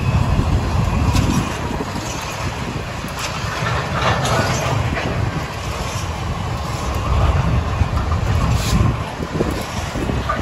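Freight train wagons rolling past close by: a steady rumble of steel wheels on the rails, with occasional clicks and clanks.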